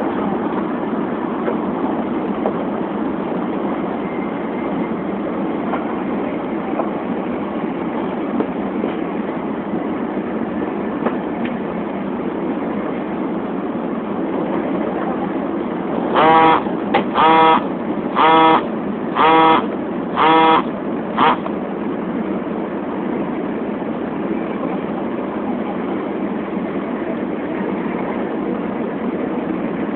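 Shinkansen running at speed, a steady rushing noise heard from inside the passenger cabin. About halfway through, six short pitched beeps sound about once a second.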